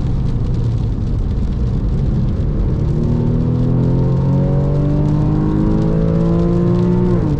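Porsche 996.2 Carrera 2's flat-six engine pulling hard under acceleration, heard from inside the cabin over tyre and spray noise; its note climbs steadily for several seconds and then drops sharply near the end.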